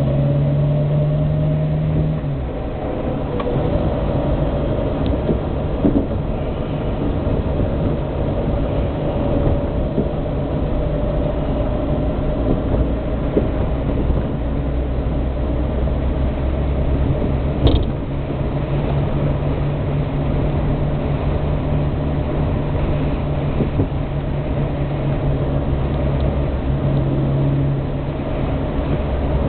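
Austin A40 Farina's BMC A-series four-cylinder engine running on the move, heard from inside the car along with road noise; the engine note changes about two seconds in and again around the middle. A single sharp click a little past the middle.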